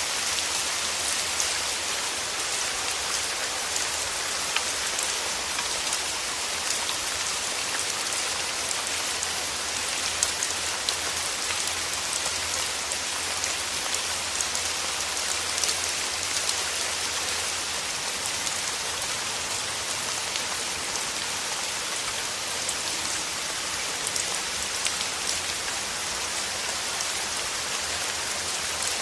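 Steady rain falling: an even hiss of many small drops, with the odd louder drop ticking out above it and a faint low rumble underneath.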